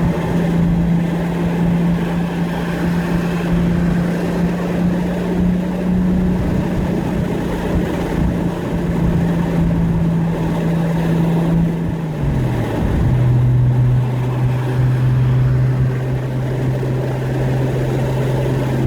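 Nissan Skyline R32 GT-R's single-turbo RB26DETT straight-six running at a steady light cruise, out of boost. About twelve seconds in, the engine note drops to a lower steady pitch and holds there.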